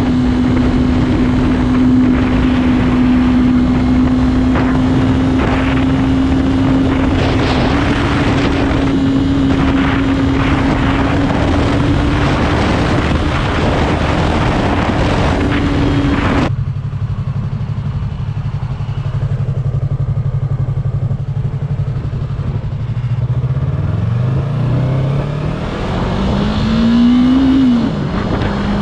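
Motorcycle engine running steadily at speed under heavy wind rush. About halfway through, the wind noise cuts off suddenly, leaving a lower engine drone. Near the end the engine pitch rises as it accelerates, then drops sharply.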